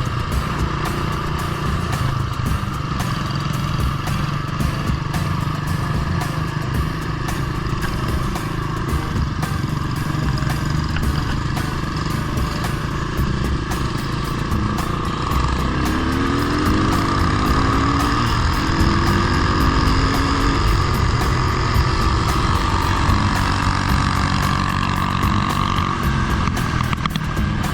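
Small single-cylinder off-road engine running steadily while being ridden, with a few quick rises in pitch a little past the middle as it revs up.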